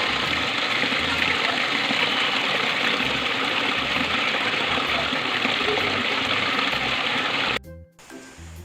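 Steady rush of water, cutting off abruptly near the end.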